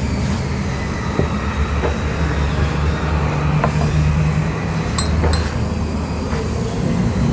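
Steady low rumble of a vehicle running, with a few light clicks and metallic clinks over it, two sharp ringing clinks about five seconds in.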